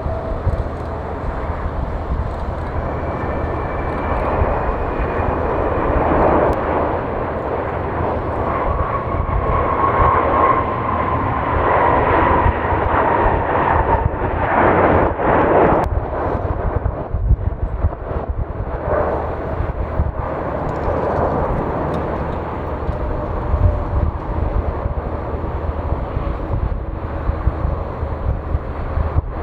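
Jet airliner's engines, a steady rushing noise with a faint whine that slides slowly down in pitch; it swells around the middle.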